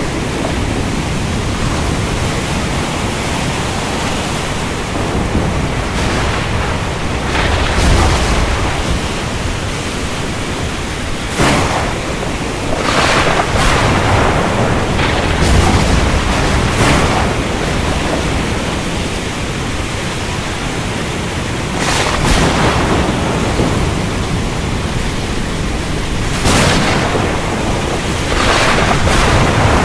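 Thunderstorm over the sea: a steady hiss of rain and waves, broken by several short thunder cracks and low rumbles that come and go through the stretch.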